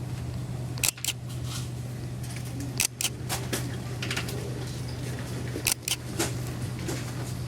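A steady low hum with irregular sharp clicks and clacks, about eight of them, the loudest near one, three and six seconds in.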